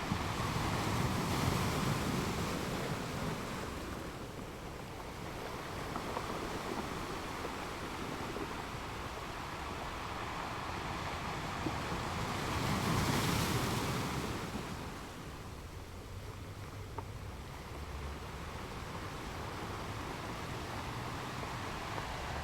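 Ocean waves washing in: a steady hiss that swells twice, rising and falling over a few seconds each time.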